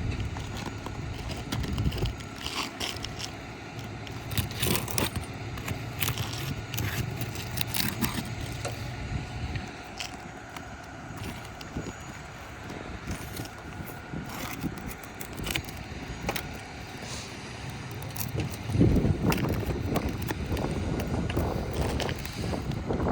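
Metal prying tool working nails out from under asphalt shingles: scattered clicks, taps and scrapes of metal on nails and gritty shingle. A louder low rumble comes in near the end.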